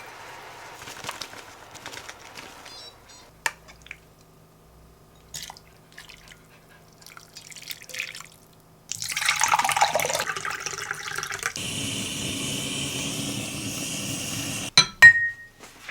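Light clicks and handling noises, then running water starting about nine seconds in and lasting several seconds, ending with two sharp knocks near the end.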